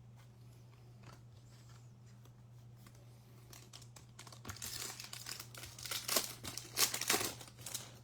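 A Topps Chrome foil card pack being crinkled and torn open, in dense crackly bursts that start about halfway through; a steady low hum underneath.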